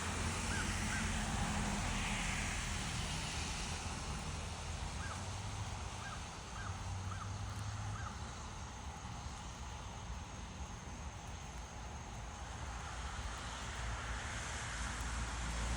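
A few short, faint bird calls: two right at the start, then five spaced out between about five and eight seconds in. Beneath them runs a steady low rumble of traffic or engine noise.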